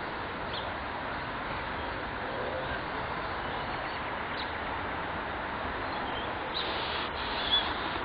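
A few brief high bird chirps over steady background noise, with a louder cluster of calls near the end.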